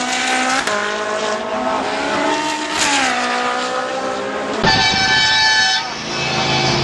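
High-performance car engine revving hard, its pitch climbing and then dropping several times as it shifts gears. About four and a half seconds in, the sound cuts abruptly to a high-pitched squeal lasting about a second, followed by a lower engine note.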